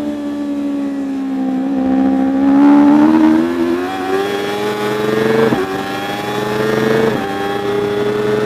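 Superbike racing motorcycle engine at high revs. The pitch sags briefly, then climbs as it accelerates, with two quick upshifts about five and a half and seven seconds in, each a short dip in pitch before it climbs again.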